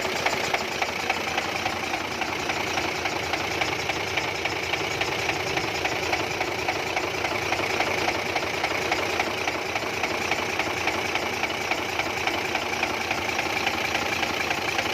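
Engine of the type named 8M22 running steadily at idle, with a fast, even pulse.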